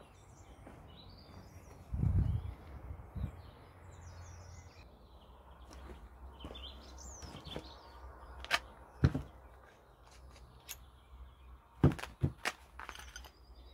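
Small birds chirping on and off, with a dull thud about two seconds in and a few sharp knocks later.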